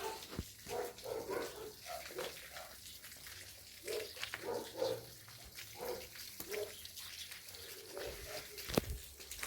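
Domestic animals calling in short bunched bursts, with a sharp knock near the end.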